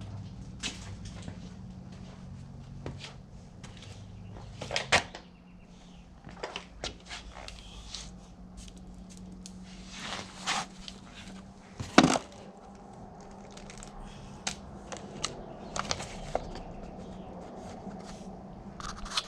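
Scattered clicks, knocks and rustles of tools and parts being handled, with one sharp knock about twelve seconds in, over a steady low hum.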